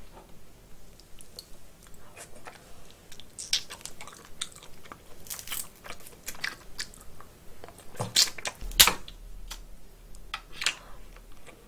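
Close-mic'd eating of steamed snow crab: chewing on crab meat, with sharp cracks and clicks as shell and leg joints are broken apart. The loudest cracks come a little past the middle.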